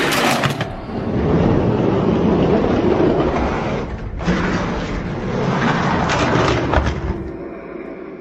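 Loud, rumbling engine-roar sound effect dubbed over a toy monster-truck race, changing abruptly about 4 seconds and again about 7 seconds in.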